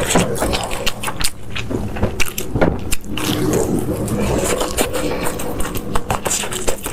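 Close-miked eating sounds: chewing and mouth clicks and smacks, coming thick and irregularly.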